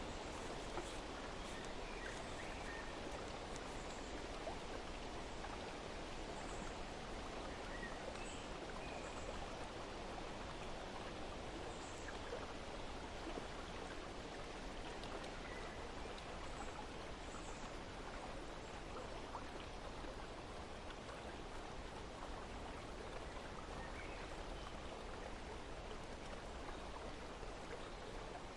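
Steady rush of running water, with faint, scattered short bird chirps over it.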